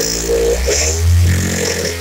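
Stihl TS 760 AV cut-off saw's two-stroke engine changing speed up from idle, loudest a little past a second in, then settling into a steady run.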